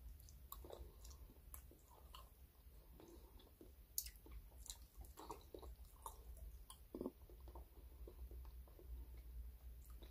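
Faint chewing of a mouthful of beef from a sinigang of cow's head, with scattered small clicks; the sharpest click comes about four seconds in.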